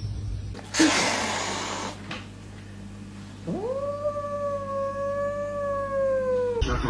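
A cat giving one long yowl of about three seconds: it rises quickly at the start, holds its pitch, sags slightly and stops abruptly near the end. About a second in there is a short rush of noise.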